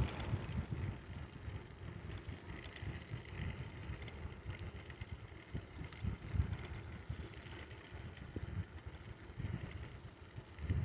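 Bicycle ride: a low, uneven rumble of wind buffeting the microphone and the tyres rolling along, with a faint hiss above it.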